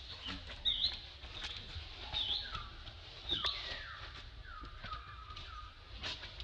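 Birds calling: repeated short, high chirps that dip and rise again, about one every second or so, mixed with lower falling whistled notes, and a few brief clicks.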